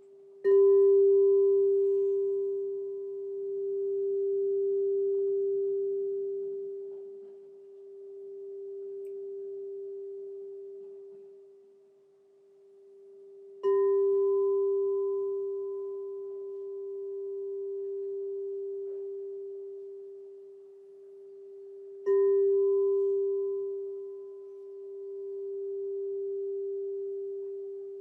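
Crystal singing bowl struck three times, each strike ringing out as one steady, pure tone with a fainter high overtone, swelling and fading slowly in loudness as it rings.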